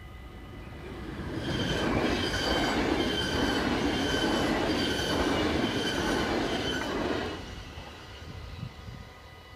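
NS VIRM double-deck electric train passing over a level crossing, its noise building about a second in, holding loud for about six seconds with a high whine on top, then dropping away. The level crossing's warning bells ring steadily underneath.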